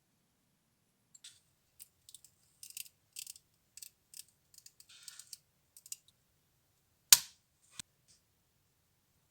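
A run of small, quick clicks and light scrapes from small parts being handled, then one loud sharp click with a short ring about seven seconds in and a smaller click just after.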